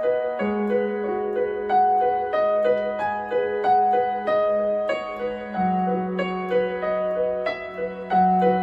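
Yamaha MX61 synthesizer playing a piano-like voice: broken-chord notes rippling two or three times a second over held low bass notes. The bass note changes near the start and again a little past halfway.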